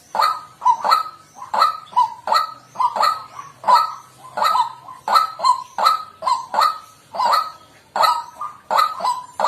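White-breasted waterhen calling loudly and steadily, its harsh "kwak" notes repeating about two a second.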